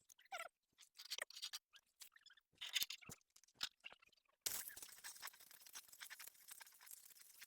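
Stick-welding arc: a few scattered scrapes and clicks, then about halfway through the arc catches suddenly and runs with a steady crackling sizzle.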